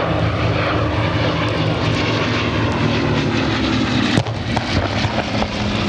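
Bristol Blenheim bomber's twin Bristol Mercury radial engines running steadily in flight overhead. There is a single sharp knock about four seconds in.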